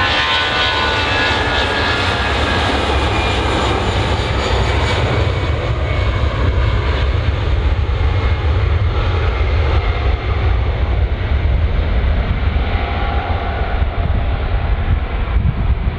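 Jet airliner's engines passing and moving away: a high whine near the start fades out while a deep, loud rumble carries on.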